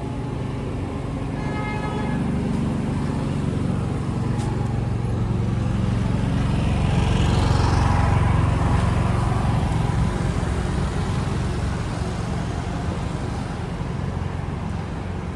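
City street traffic rumbling, swelling to a peak about halfway through as a heavy vehicle passes and then easing off. A short horn toot sounds about two seconds in.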